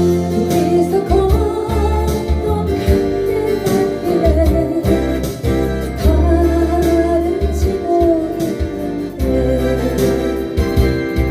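Singing of a slow Korean song over guitar and instrumental backing with a steady bass, the voice entering about a second in and wavering as it holds notes.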